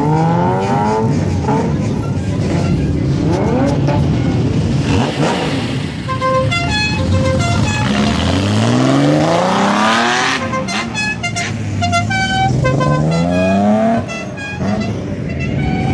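Bozozoku-style modified cars revving their engines hard as they pull away one after another, each rev a rising sweep in pitch. In between, a musical horn plays a short tune of stepped notes.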